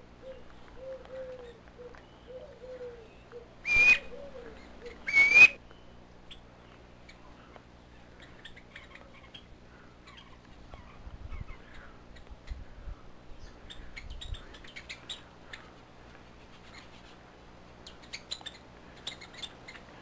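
Birds calling: a soft run of low, wavering notes over the first few seconds, then two loud, shrill, slightly rising calls about a second and a half apart, then scattered faint high chirps.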